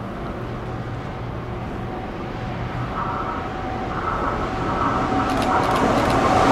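Electric freight locomotive approaching with a freight train, its running noise and a whine growing steadily louder toward the end.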